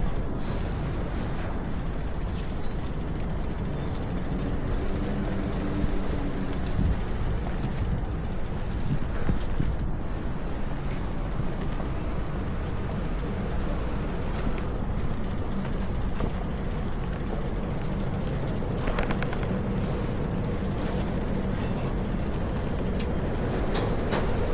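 City street ambience: a steady low rumble of traffic and gusting wind, with scattered clicks and rattles.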